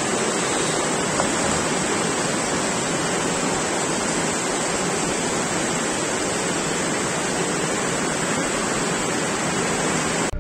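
Heavy rain pouring steadily onto trees and a wet street, an even hiss throughout.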